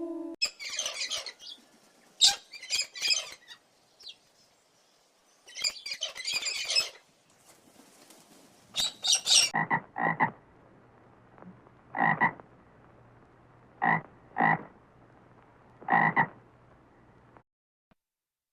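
Animal calls: clusters of rapid rattling calls in the first half, then short calls, mostly in pairs, repeating about every two seconds from about nine seconds in.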